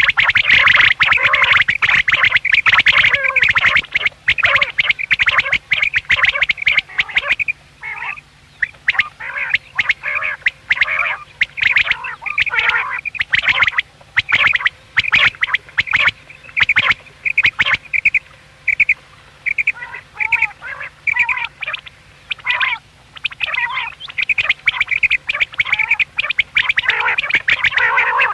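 Common quail calling: a steady stream of short, sharp call notes that overlap densely at first and near the end, and thin out to evenly spaced notes in the middle.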